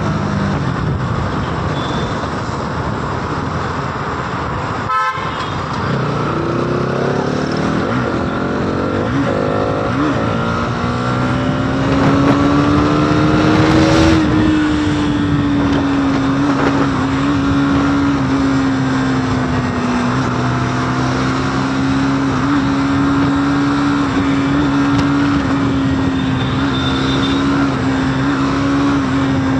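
Motorcycle engine accelerating while riding: its pitch climbs steadily for about eight seconds, then holds at high cruising speed. A constant rush of wind noise runs underneath, and there is a brief click about five seconds in.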